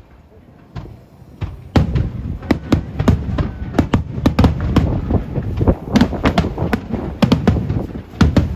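Aerial fireworks shells bursting: a few scattered bangs, then from about two seconds in a dense, rapid barrage of loud bangs, several a second, echoing.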